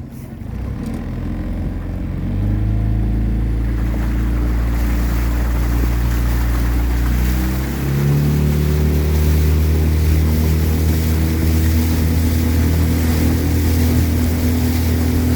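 A coaching launch's outboard motor running under way, a steady drone that picks up about two seconds in and rises in pitch again about eight seconds in as it speeds up, with a hiss of water and wind building over it.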